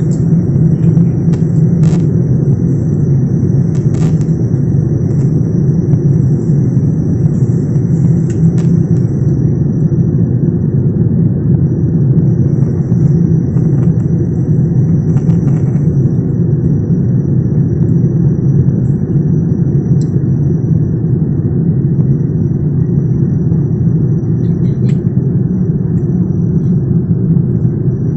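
Steady low drone of a jet airliner's engines and airflow heard inside the passenger cabin, with a few faint ticks.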